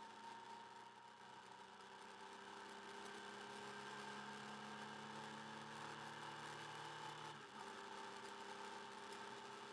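Motorcycle engine running while riding, heard faintly through the bike-mounted camera's microphone; its note steps to a different pitch about seven and a half seconds in.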